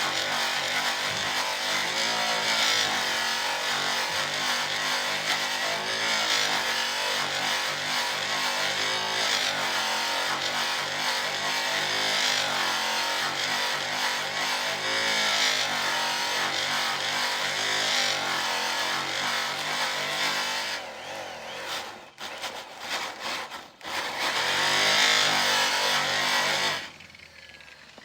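Electric rotary polisher running with its buffing pad on a 24.5-inch truck drive wheel: a motor whine that wavers in pitch over a steady hiss of pad on metal. After about twenty seconds it cuts out and back in several times, then stops near the end and starts up again.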